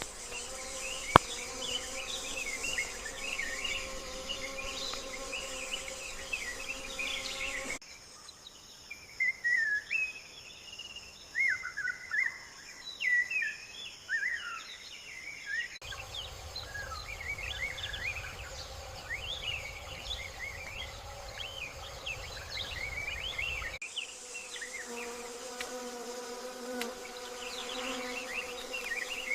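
Insects buzzing in a steady drone, with many short chirps over it. The sound cuts abruptly to a different stretch of the same kind of ambience about every eight seconds.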